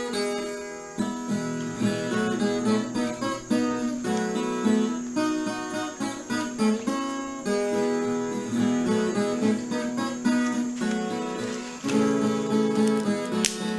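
Background music: acoustic guitar strumming and picking a steady rhythm.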